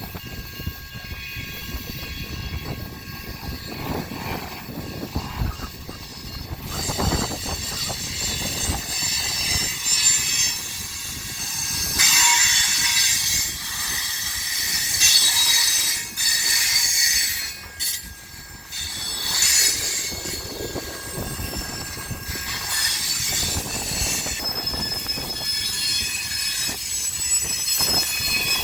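Herzog work train's cars rolling slowly in reverse with a low rumble, their wheels starting to squeal on the rails a few seconds in, the high squeal rising and falling and loudest through the middle.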